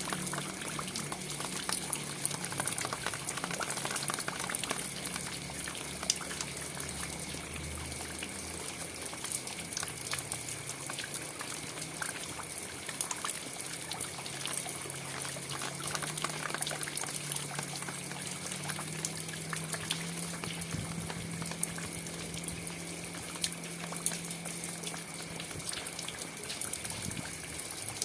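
Steady rain falling, with many individual drops ticking sharply through the even hiss, and a faint low hum underneath.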